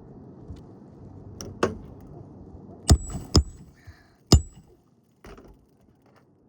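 Several sharp knocks and clicks, the loudest two with a brief high metallic ring, over a steady low rumble that drops away about four and a half seconds in.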